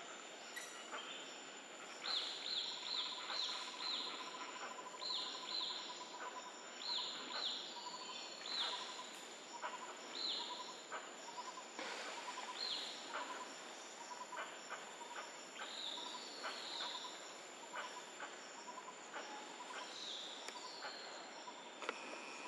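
Forest birds calling: short, sharp downward-sliding chirps, several a second in runs, then more scattered. Underneath are a steady high-pitched tone and a softer, fast-pulsing trill.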